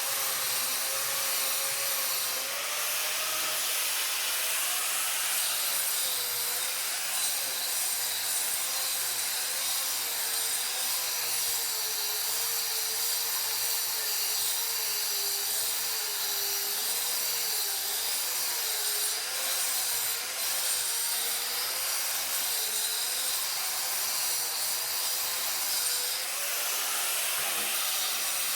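A power tool running continuously, its motor pitch wavering up and down as the load on it changes.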